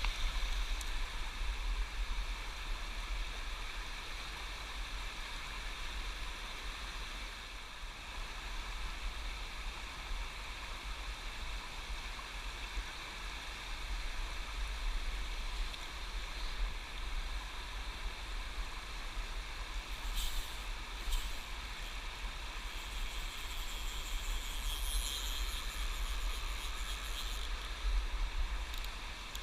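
Steady rush of river water with a low wind rumble on the microphone, and a few brief hissing noises about two-thirds of the way through.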